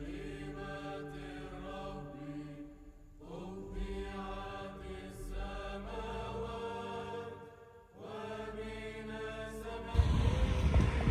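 Slow sung chant with long held notes over a steady low drone, changing pitch every second or two. About ten seconds in it cuts off and a loud rushing rumble takes over, like wind on the microphone.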